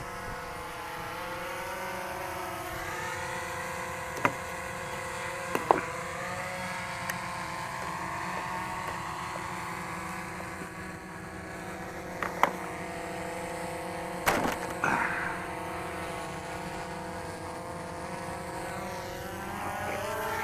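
DJI Phantom 3 quadcopter's propellers buzzing steadily in flight, the pitch wavering slowly as it manoeuvres, with a few sharp clicks along the way.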